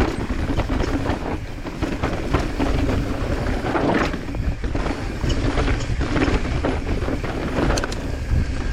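Mountain bike descending a rough trail at speed: wind rushing over the microphone, tyres rolling over rock and loose ground, and frequent rattles and knocks from the bike.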